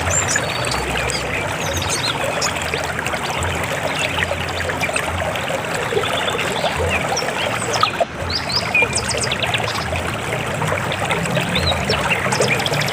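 River water flowing, a steady rush of running water with short high chirping notes scattered over it.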